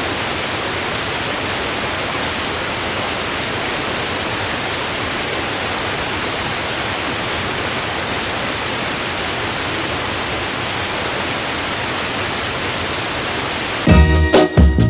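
A steady, even rushing noise with no change in it, then music with a drum beat cuts in abruptly near the end.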